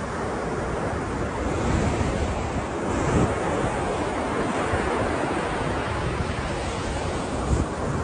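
Ocean surf washing continuously, with a louder swell about three seconds in, and wind buffeting the microphone with low thumps.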